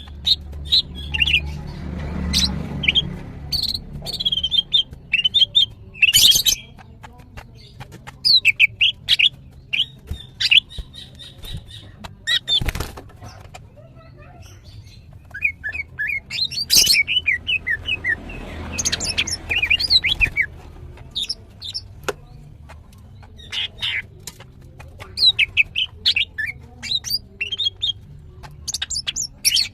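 Female greater green leafbird (cucak ijo) calling in rapid clusters of short, high chirping notes separated by brief pauses, with scattered sharp clicks. A soft rustle comes twice, about two seconds in and again near the middle.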